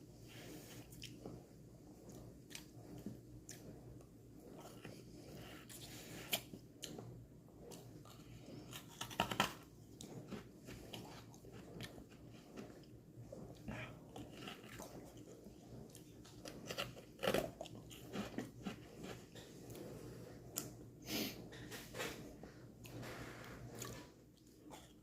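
Biting and crunching into a frozen strawberry lemonade popsicle, with chewing between bites in an irregular run of crisp crunches. The loudest crunches come about nine seconds in and again around seventeen seconds.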